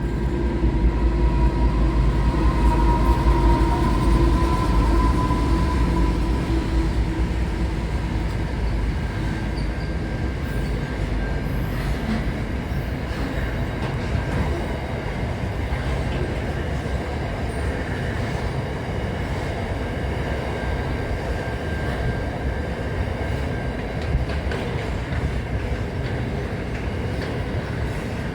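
Train running on the rails: a steady rumble with a humming tone over the first several seconds that then fades, leaving an even rumble.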